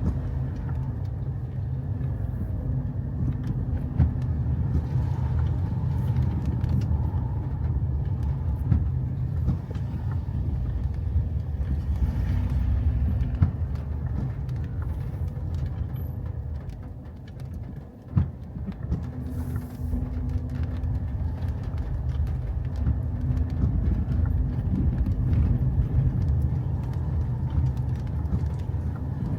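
A car driving, with a steady low rumble of engine and road noise, a few light clicks, and a brief lull about two-thirds of the way through.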